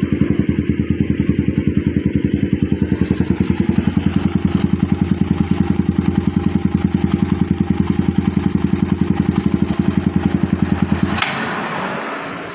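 Suzuki Satria FU single-cylinder engine with a modified twin-port double-exhaust head, idling with a steady, even pulsing beat through its exhausts. About eleven seconds in there is a click and the engine cuts off, and the sound dies away.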